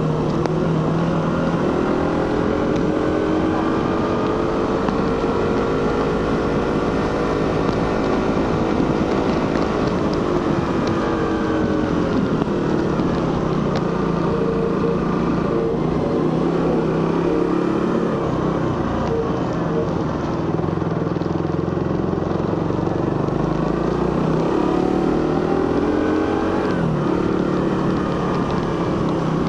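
Suzuki GSX-R150's single-cylinder 150 cc engine and stock exhaust under way, the revs rising and falling several times with the throttle, with a sharper drop in pitch near the end.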